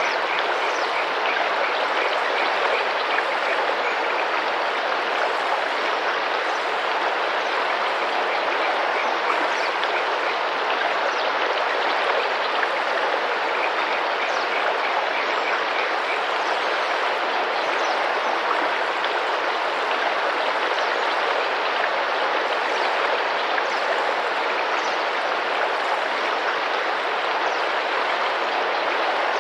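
Tropical river water rushing and splashing steadily over rocks, with faint, short high chirps of birds now and then above it.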